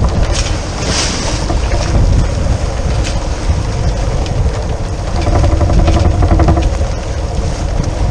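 Wind buffeting the microphone aboard a sailboat under way, a loud steady rumble with a few short knocks or splashes and a faint hum partway through.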